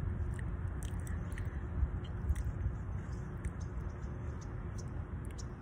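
A person chewing a mouthful of chili cheese fries, with short wet mouth clicks scattered through, over a steady low rumble.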